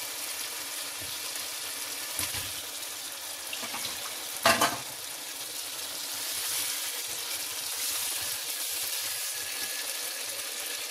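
Onion-tomato masala sizzling in a pan as water-soaked potato pieces are added and stirred in with a wooden spoon. A single sharp knock comes about four and a half seconds in.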